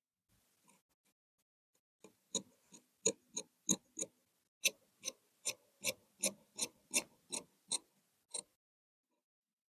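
A run of about sixteen sharp, evenly paced clicks, roughly three a second, from a tailor's hand tools at work on cloth. The clicks begin about two seconds in and stop near the end.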